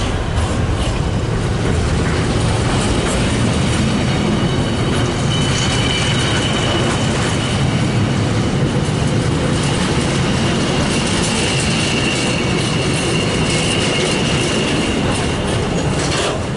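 Freight train rolling past on the rails with a steady low rumble. A faint high wheel squeal comes in about five seconds in and fades out after about fifteen seconds.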